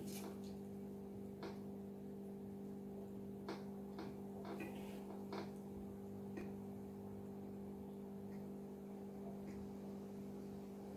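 Faint sounds of someone chewing a burger: a few soft, irregular mouth clicks over a steady low electrical hum.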